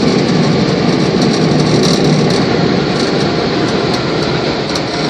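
Automatic car wash air dryers blowing, a loud steady rush of air heard from inside the car.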